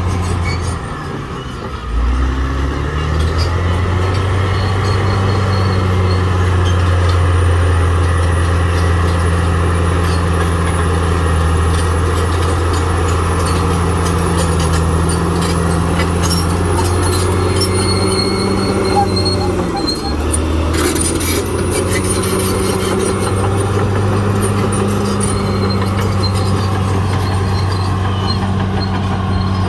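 Caterpillar D6R XL bulldozer's diesel engine running steadily under work, its note dipping and recovering about a second in and again briefly about twenty seconds in.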